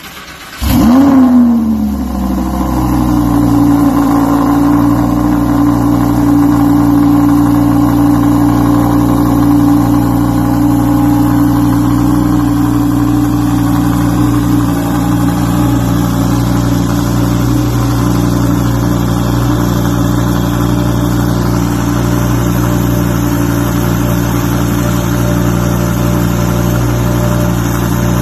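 Lamborghini Huracán Avio's V10 engine through an iPE aftermarket exhaust starting up. The starter cranks briefly, and about a second in the engine fires with a short, loud rev flare that rises and falls. It then settles into a steady idle.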